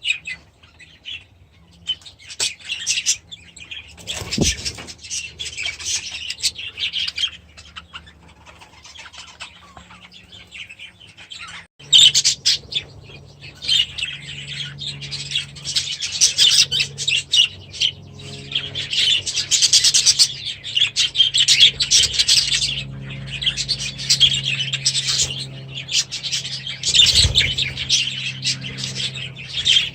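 A flock of budgerigars chattering and chirping, fainter at first and then much louder from about twelve seconds in, with a low steady hum underneath the louder part.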